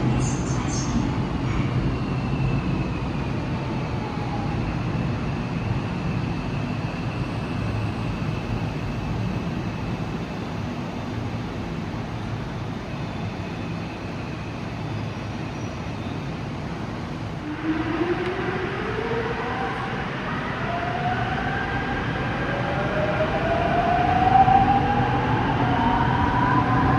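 Seoul Subway Line 5 train with a steady low running rumble. From about two-thirds of the way in, its electric traction motors whine in several rising tones, climbing in pitch as the train accelerates away.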